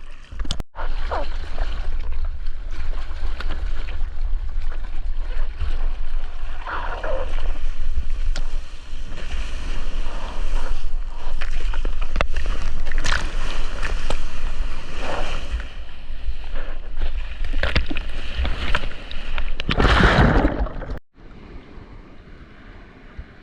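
Water rushing and splashing, with wind buffeting the microphone of a surfer's GoPro out in the waves, full of crackles and a heavy low rumble. It swells to its loudest near the end, then cuts off sharply and much quieter water noise remains.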